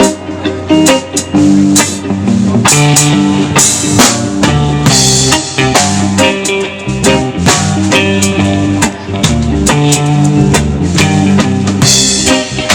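Live band playing an instrumental reggae groove: guitar over a drum kit, with steady drum strokes and no singing.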